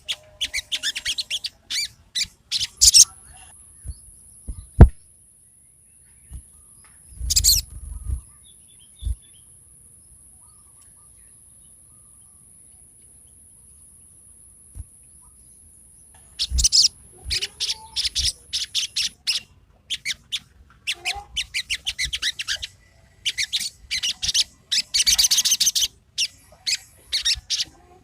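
Sogon songbird singing in fast runs of sharp, high chattering notes, with a long pause in the middle broken by a couple of knocks and a faint steady high whine. The song picks up again about halfway through, with its densest, loudest run a little before the end.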